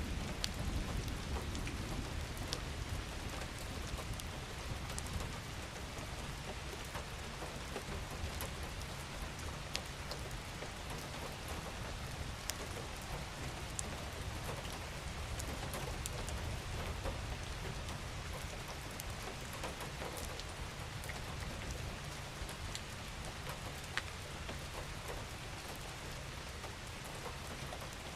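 Steady rain falling, with a low rumble underneath and many single drops ticking sharply through the constant patter.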